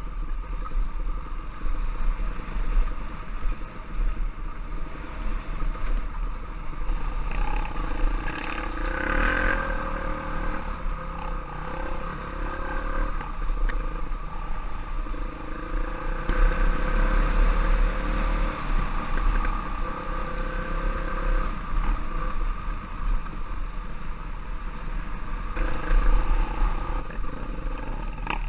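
Dirt bike engine running as the bike is ridden on a trail, the revs rising and falling with the throttle, over a heavy low rumble.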